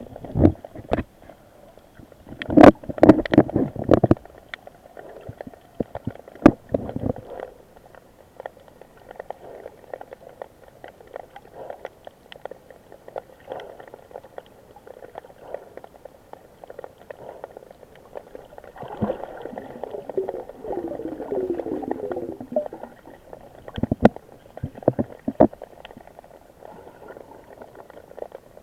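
Sea water sloshing and gurgling close to the microphone, muffled, with scattered knocks and bumps and louder surges a few times.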